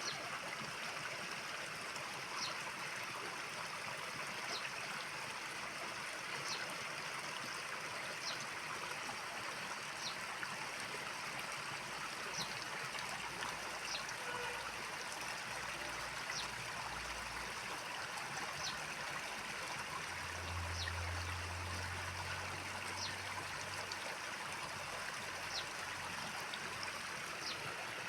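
Rushing water of a mountain stream, a steady even rush, with a faint short high chirp repeating about every two seconds.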